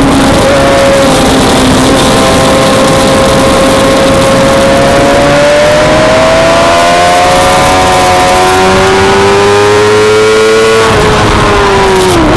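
Suzuki GSX-R600 inline-four race engine running hard on track. Its pitch climbs steadily for several seconds, then drops quickly near the end, over a constant loud rush of noise.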